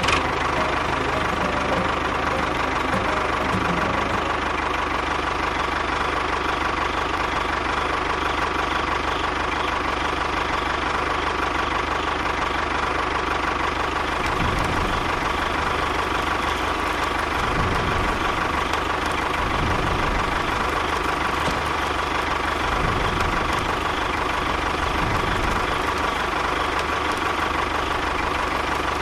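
A mini tractor's engine running steadily at an even speed.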